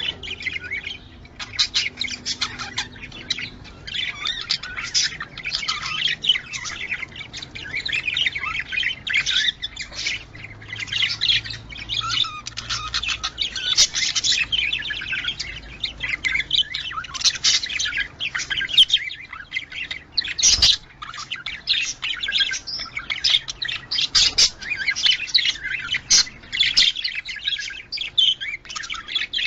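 Budgerigars chattering without pause: a dense stream of rapid chirps, warbles and short squawks.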